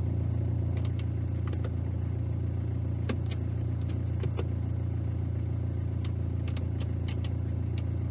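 Mercedes GLK 250 engine idling steadily, heard from inside the cabin, with raindrops tapping on the windshield and roof in scattered clicks.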